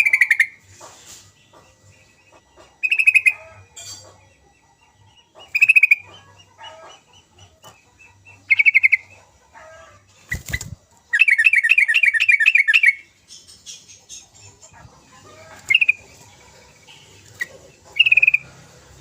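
Yellow-vented bulbul giving short bubbling chattering calls about every three seconds, with one longer rapid chattering run about eleven seconds in. A single sharp knock comes just before that run.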